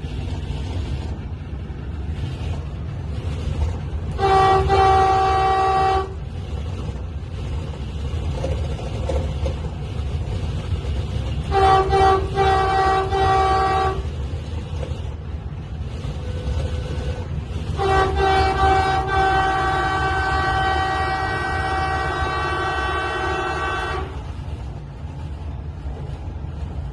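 Delhi–Meerut RRTS train's horn sounding three times over the steady low rumble of the train running at speed. First comes a short blast, then a broken series of short toots, then a long blast of about six seconds.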